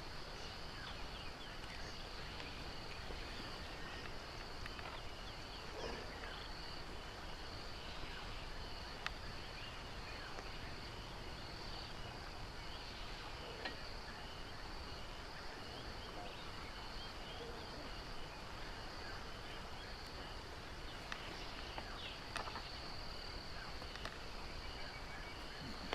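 Steady insect chorus, crickets trilling on two constant high tones over a background hiss, with a few faint clicks.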